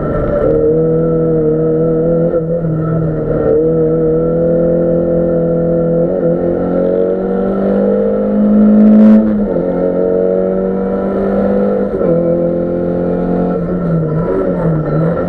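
Group R rally car's engine heard from inside the cabin, running hard under load. The pitch climbs to its loudest just before nine seconds in, then drops with a gear change, and shifts again at other gear changes.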